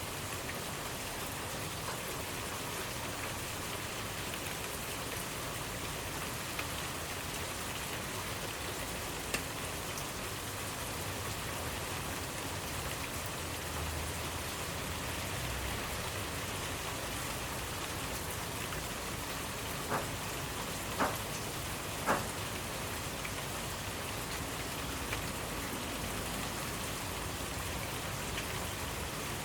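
Steady rainfall, an even hiss of many drops. Three louder single drops land about a second apart roughly two-thirds of the way in.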